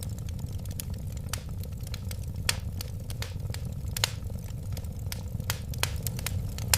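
Wood fire burning with a low steady rumble and frequent sharp crackles, a few louder pops standing out.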